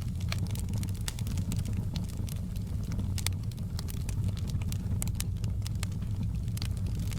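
Wood fire burning in a fireplace: a steady low rumble of the flames with frequent sharp crackles and pops scattered irregularly.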